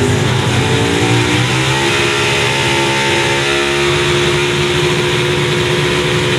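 Pulling truck's engine at full throttle hauling the sled down the track, its pitch climbing about a second and a half in and then held high and steady.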